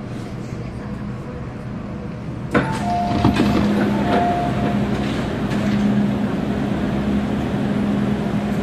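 MTR M-Train running, with a steady low hum. About two and a half seconds in there is a sudden knock, after which the running noise is louder, and two short tones sound soon after.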